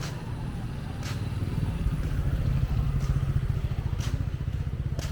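A motorbike engine running close by, growing louder toward the middle and then easing off as it passes. Light footsteps tick about once a second underneath.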